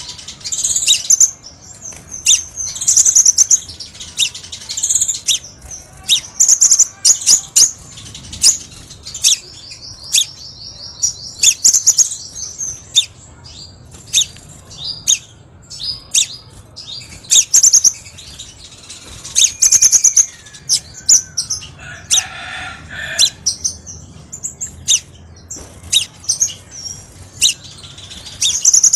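Crimson sunbird (Kolibri Sepah Raja) singing: a busy run of very high-pitched chirps, sharp ticks and short twitters, with a fast trill about a third of the way in. A brief lower, buzzier sound comes in about three-quarters of the way through.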